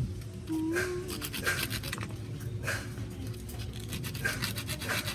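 Sandpaper rubbing on a Toyota Hiace starter solenoid contact in short, irregular scratchy strokes, cleaning off the light pitting that causes the starter to click without cranking.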